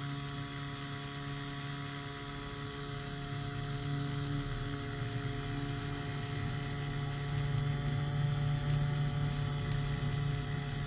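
Powered hang glider's engine and propeller running at a steady speed, a constant droning hum, a little louder in the second half.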